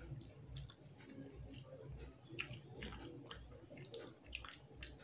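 Faint wet chewing and lip smacks while eating rice and fish curry by hand, with soft squelches as fingers mix the rice into the curry. Many small, irregular clicks.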